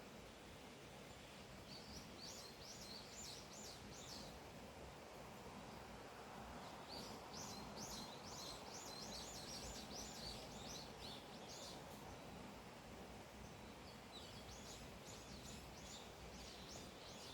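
A songbird singing three bursts of quick, high, repeated notes, each lasting a few seconds, over a faint steady outdoor hiss.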